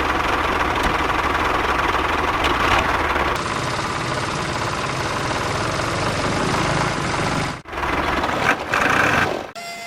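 Mini tractor engine running steadily, with a knocking, rattling quality. The sound cuts out abruptly twice near the end.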